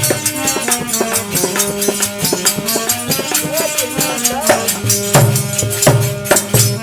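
Instrumental interlude of a dehati devotional bhajan, with no singing: a drum keeps a steady beat with rattling percussion while a melody instrument plays held notes.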